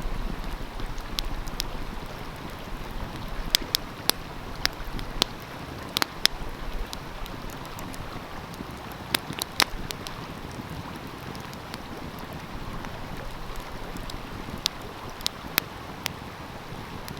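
A wood fire crackling, with scattered sharp pops that come in small clusters, over the steady rushing of a stream.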